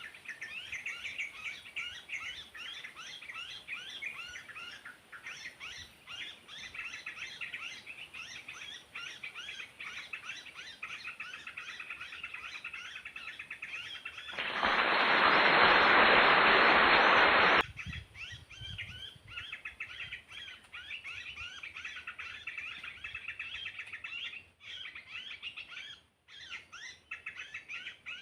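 Dense, continuous fast chirping of small birds. About halfway through, a loud rushing hiss-like noise lasts about three seconds and stops abruptly.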